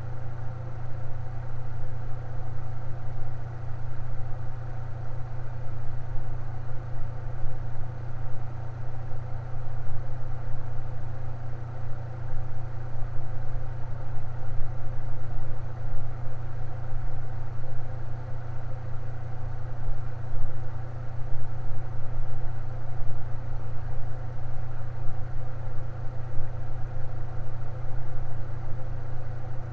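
An electric fan running at a steady speed, with a strong low hum under an even whir.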